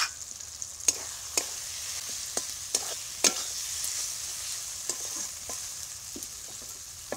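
Onion-tomato spice masala sizzling in hot oil in a blackened kadai while a metal spatula stirs it, the spatula clicking and scraping against the pan about eight times. The masala is being fried down (kasha) with freshly added turmeric.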